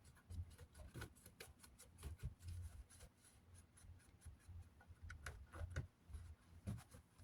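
Faint handling noise from a plastic box fan cabinet: scattered light clicks and soft rubbing, with dull low bumps.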